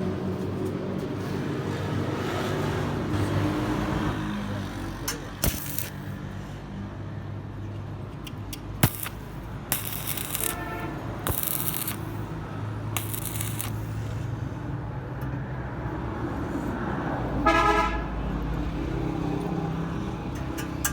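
Road traffic running steadily, with a vehicle horn tooting twice, about ten seconds in and again near the end, and a few sharp knocks in between.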